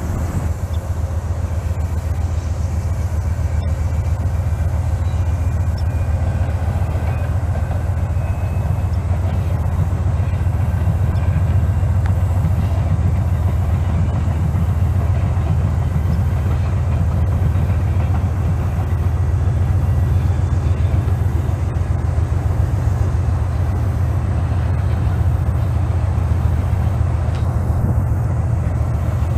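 A train rolling past with a steady low rumble that holds at the same level throughout.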